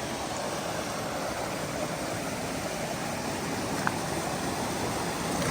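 Steady rush of a mountain stream's water pouring over rocks, an even noise with no pauses. A faint tick about four seconds in.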